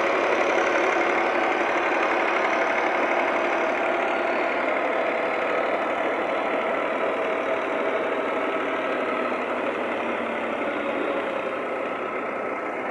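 Millat tractor's diesel engine running steadily, gradually getting a little quieter over the stretch.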